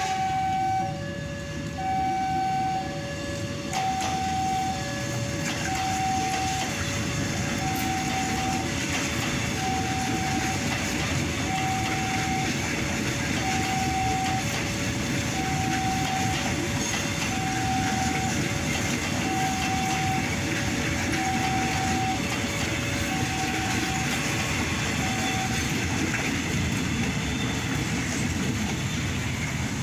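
KRL electric commuter train passing close by on the rails, a steady rumble of wheels on track. Over it a level-crossing alarm beeps in two alternating tones, high and low, about once a second, and falls silent near the end as the train clears.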